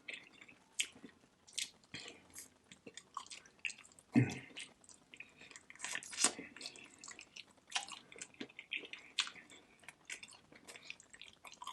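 Close-miked wet chewing and mouth smacking of a person eating barbecue ribs: a steady string of irregular sharp clicks and squelches, with one louder, deeper sound about four seconds in.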